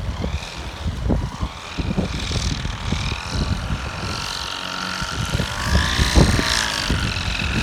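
Paramotor's engine and propeller running, its pitch drifting up and down and rising briefly about six seconds in, with wind buffeting the microphone.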